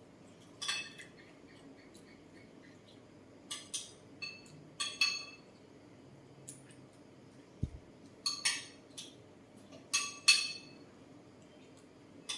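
Cutlery clinking against dishes: about a dozen sharp, ringing clinks at irregular intervals, mostly in pairs and small clusters, the loudest about ten seconds in.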